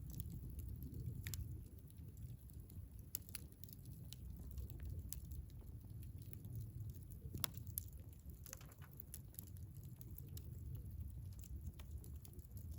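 Wood fire burning in a Picogrill 398 fire stand: irregular sharp crackles and pops scattered throughout, over a low steady rumble.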